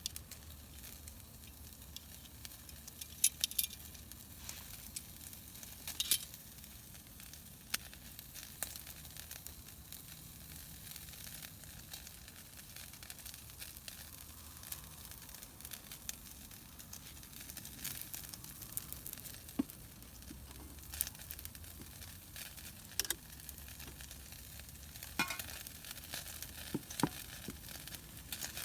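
Steady sizzling hiss from a campfire cooking setup, broken by scattered sharp pops and crackles, a few more of them near the end.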